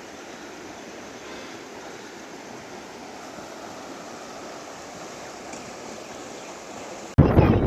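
Steady rush of the Saryu river's flowing water, an even hiss with no distinct events. About seven seconds in it cuts off abruptly to a much louder rush of noise.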